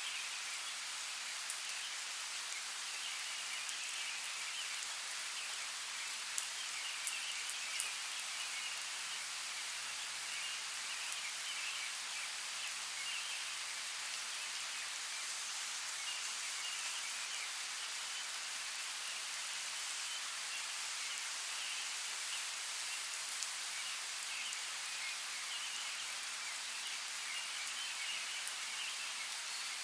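Steady rain falling in a forest: an even hiss with scattered individual drops ticking close by, a few of them louder.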